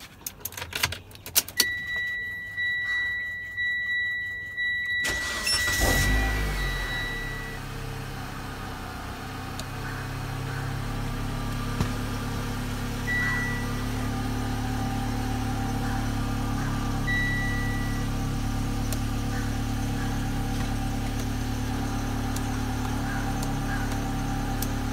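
Mitsubishi Lancer Sportback's engine started from the driver's seat: a few clicks, a pulsing electronic warning chime, then the engine cranks and catches about six seconds in and settles into a steady idle. Two short chime beeps sound again later while it idles.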